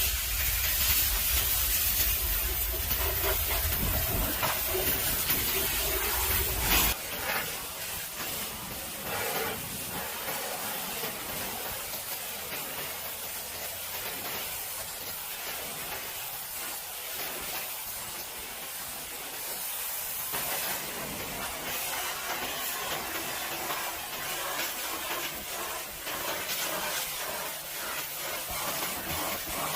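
Water spraying from a car wash pressure washer wand, a steady hiss. A low rumble underneath stops abruptly about seven seconds in.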